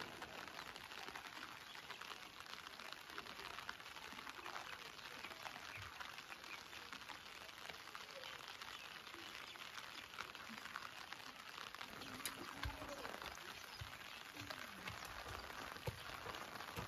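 Faint, steady patter of light rain, a fine crackle of many small drops.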